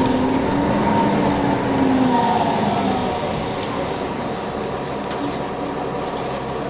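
NovaBus TL-40102A low-floor city bus running in service, its engine and drivetrain giving a whine that bends in pitch for the first three seconds, then fades to a steadier, slightly quieter running sound.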